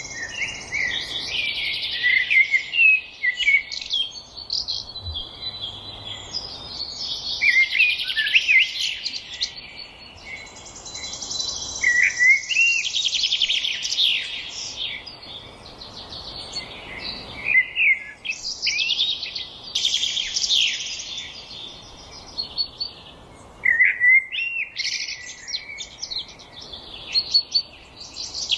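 Songbirds singing in the forest: overlapping phrases of quick chirps, sweeping notes and fast trills come in bursts every few seconds, over a faint steady hiss.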